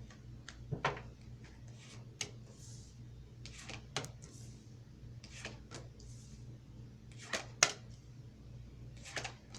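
Tarot cards being handled and laid down: a scattered series of light clicks and snaps, with a steady low hum underneath.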